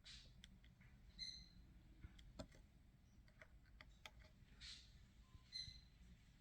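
Near silence: faint room tone with a few scattered light clicks and two or three brief, faint high chirps.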